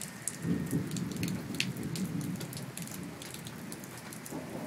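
Rain falling, with sharp drops ticking on nearby surfaces, under a low rumble of distant thunder that sets in about half a second in and fades towards the end.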